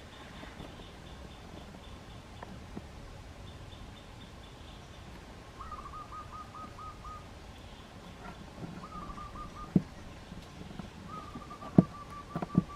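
A bird calling in three bouts of rapid, evenly repeated notes, with a fainter high-pitched series of notes in the first few seconds. There are two sharp knocks in the later part.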